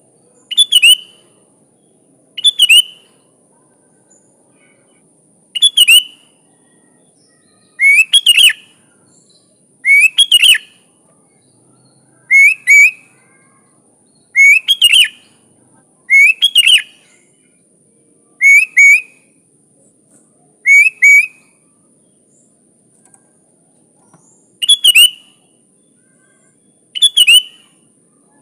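Sooty-headed bulbul singing short, loud whistled phrases, one about every two seconds, with a longer pause near the end. A faint steady high-pitched tone runs underneath.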